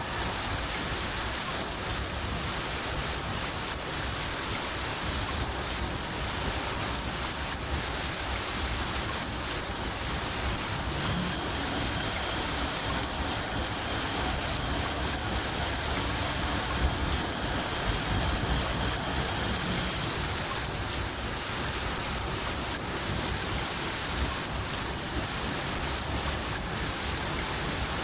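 Crickets chirping in an even, unbroken rhythm of about three chirps a second, over the steady hiss of rain.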